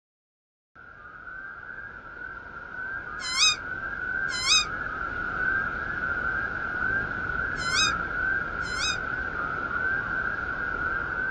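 Birds calling: four short rising calls with a hooked end stand out over a steady, high, slightly wavering trill.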